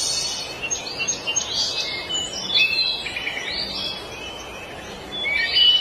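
Small songbirds chirping and singing: quick chirps and short whistled phrases, some rising or falling, over a steady background hiss.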